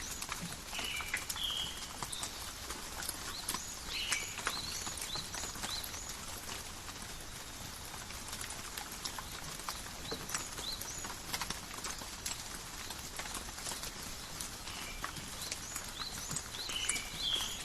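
Steady forest rain, with raindrops pattering and dripping on leaves as a constant hiss dotted with sharp ticks. A bird gives short chirps about a second in, again around four seconds in, and near the end.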